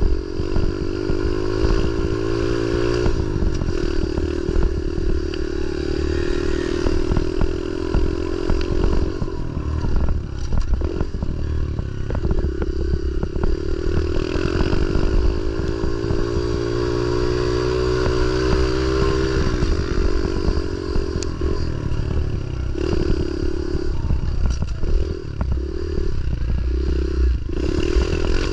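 Pit bike engine riding hard on a dirt track, revving up through the gears with its pitch climbing and dropping. It makes a long climb in the middle, then a run of short throttle blips near the end. Low rumble and rattle from the bike and wind run underneath.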